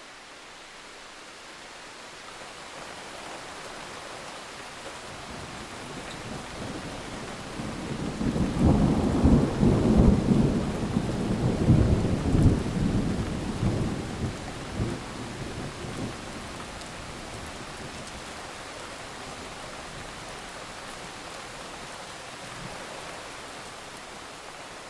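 Steady rain falling with a long rolling peal of thunder: the rumble builds about a third of the way in, peaks in several deep surges, then fades back under the rain hiss.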